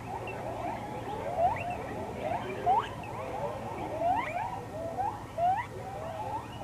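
A troop of Japanese macaques calling: many short, rising coo calls overlapping one another, several a second.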